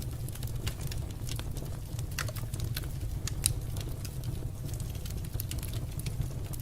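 Wood fire crackling in a fireplace: irregular small pops and snaps over a steady low rumble, with one sharper pop about halfway through.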